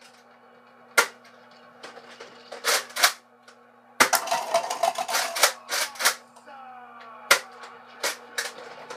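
Nerf blaster firing and being worked: a string of sharp clicks and snaps, a few spaced out and then a quick flurry about four seconds in. Television music plays underneath.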